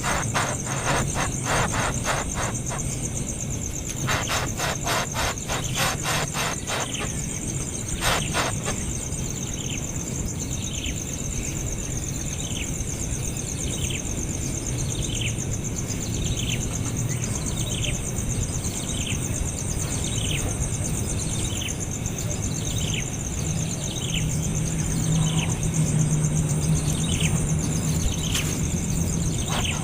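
Baby bird calling: rapid strings of high chirps in the first eight seconds or so, then single short chirps that slide downward in pitch, repeated about once a second.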